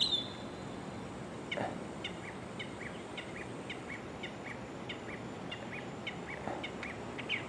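A songbird singing: a steady series of short, falling whistled notes, about two a second.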